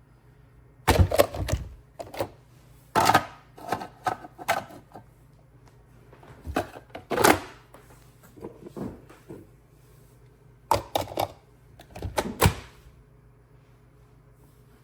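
Handling noise: short clusters of sharp knocks, clicks and thunks from hard objects being moved and set down, seven bursts in all, over a faint steady low hum.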